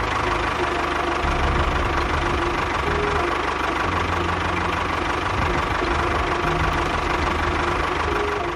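Small motor of a DIY mini tractor-bulldozer running steadily.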